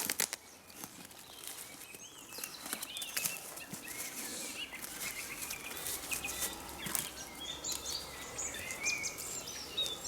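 Songbirds chirping and singing in a forest, with short chirps starting about two seconds in and growing busier towards the end. Scattered sharp clicks and rustles sound close by throughout.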